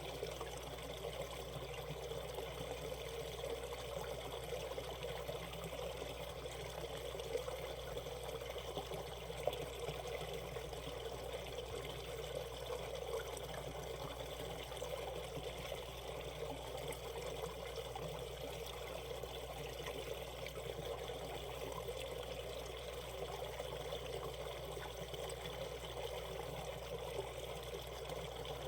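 Valley stream water flowing and trickling over rocks, a steady even rush with a couple of brief splashes.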